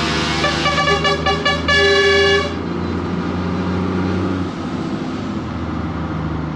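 Lorry air horns sounding several short toots and then a longer blast over the steady drone of a truck engine. The horn stops about two and a half seconds in, and the engine drone drops away about four and a half seconds in.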